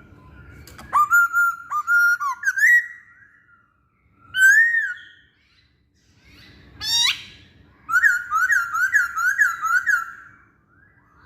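Masked laughingthrush (poksay Hongkong) singing loud whistled phrases: a short string of notes, a single arched whistle, then a quick rising sweep. Near the end comes a rapid run of about eight repeated notes.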